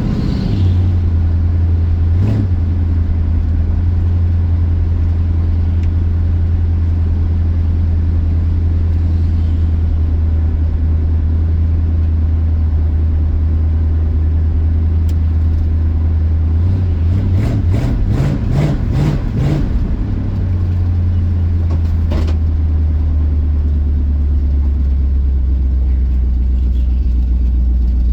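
Car engine running steadily while driving, heard from inside the car. Its note drops about half a second in. Between about 17 and 20 seconds it wavers in a quick run of pulses with a few sharp knocks, then settles at a lower, steady note.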